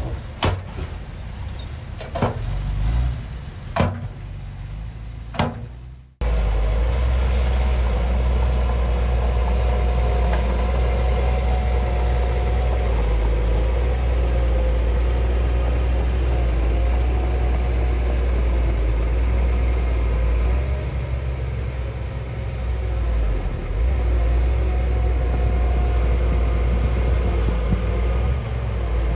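Heavy diesel earthmoving machinery at work: engine noise with four sharp metallic clanks in the first six seconds, then an abrupt change to a steady, deep diesel engine drone.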